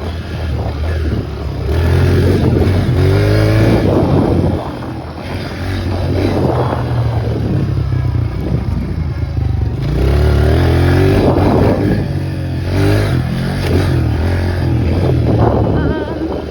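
Dirt bike engine running hard, revving up and easing off in repeated surges, with the pitch climbing twice.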